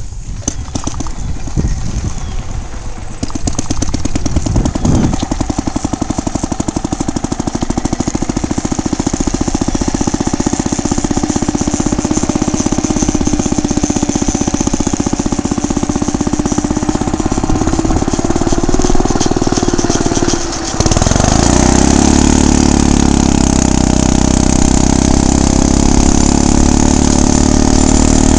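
Small gas engine of a motorized bicycle catching and running as the bike gets under way, with a fast, even putt-putt. About two-thirds of the way through, the sound abruptly becomes louder and steadier.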